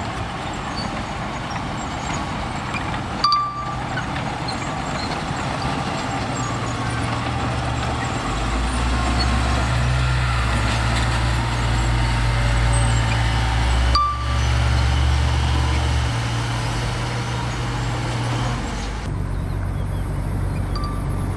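Bulldozer's diesel engine running steadily, its low drone growing louder and deeper from about eight seconds in as it works, then easing off near the end. A brief sharp knock sounds about three seconds in.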